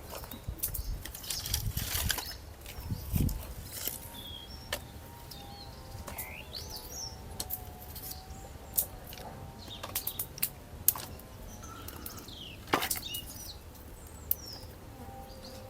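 Birds chirping in short calls over scattered sharp clicks and knocks, with a faint wavering hum underneath.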